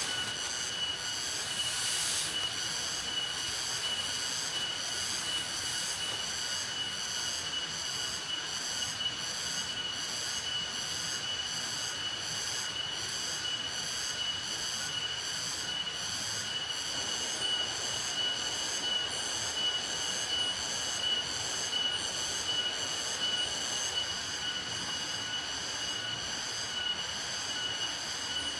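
Insects chirring steadily in a continuous high-pitched drone, with a pulsing overtone about three times every two seconds.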